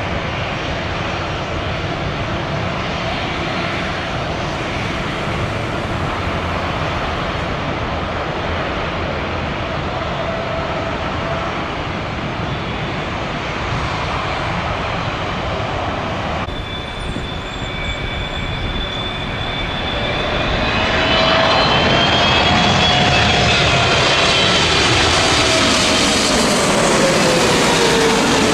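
Jet airliner engine noise: a steady rush, then a landing jet comes in and grows louder about two-thirds of the way through. Its whining fan tones fall in pitch near the end as it passes close overhead.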